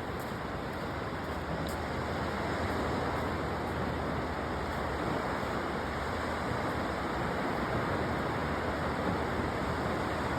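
Steady, even rush of sea waves washing onto a beach, mixed with wind.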